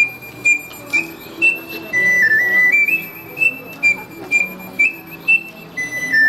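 Ocarina playing a lively high melody in short, clearly attacked notes, about two a second, stepping up and down in pitch over a quieter lower accompaniment.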